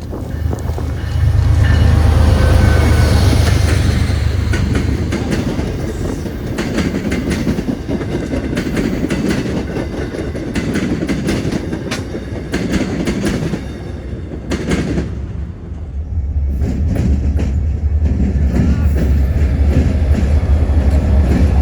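A train passing at close range, its wheels clicking rhythmically over the rail joints above a steady rumble.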